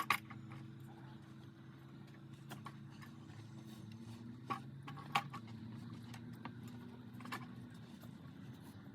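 Small engine running steadily at an even speed, with a few sharp clicks or knocks scattered through it.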